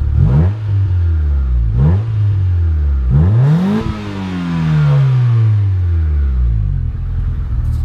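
Honda D15B 1.5-litre non-VTEC four-cylinder revved from idle through a Greddy SP cat-back exhaust. It gives two short blips, then a third, higher rev that falls slowly back to idle.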